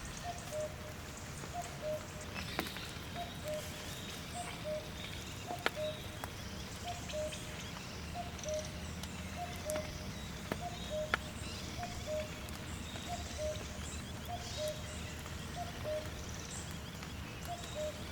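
Forest ambience: a faint two-note animal call repeating steadily, about twice a second, over a low rumbling haze, with scattered sharp clicks and brief high bird chirps.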